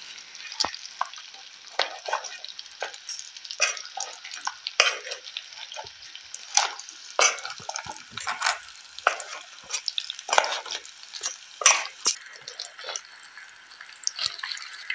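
Fish and shrimp stir-frying in a pan with onion and chili: a steady sizzle, with irregular sharp scrapes and clacks of the utensil stirring against the pan.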